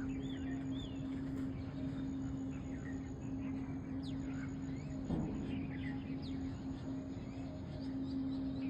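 Songbirds chirping and whistling in many short, scattered calls over a steady low hum and a faint, constant high-pitched tone.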